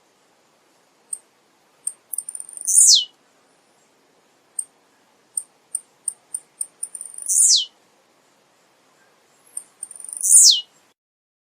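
Male blue-black grassquit (tiziu) singing: three short song phrases, each a high note falling steeply in pitch, with short high ticking chips scattered between them.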